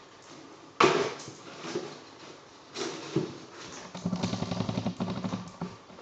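A dog playing with a cardboard shoebox. The box makes a sudden loud knock about a second in, then a few lighter knocks, then a stretch of rapid scraping and rattling near the end.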